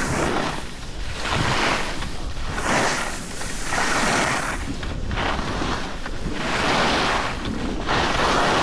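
Wind rushing over the microphone and the hiss of snow scraping under a rider sliding downhill, swelling and fading every second or so as the rider turns.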